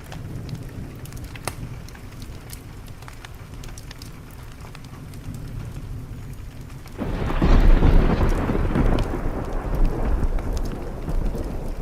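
Steady rain with scattered small crackles from a wood fire, then about seven seconds in a loud thunderclap breaks and rumbles on, slowly fading.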